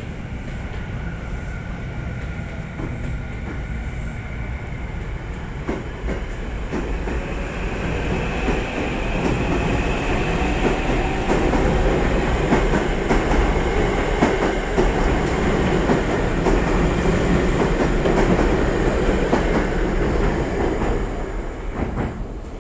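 Electric train running past on the rails, with wheels clacking over rail joints and a faint motor whine. It grows louder from about six seconds in, stays loud, then fades near the end.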